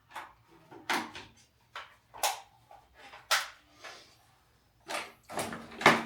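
A series of sharp knocks and clacks of hard objects being handled. There are single strikes every second or so, then a louder cluster of knocks near the end.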